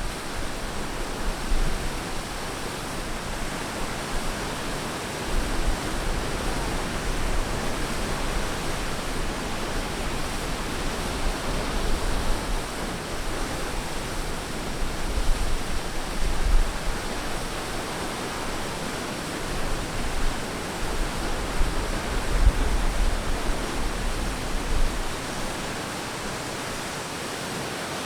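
Ocean surf washing steadily onto a beach, an even hiss of breaking water with low rumbles swelling up now and then.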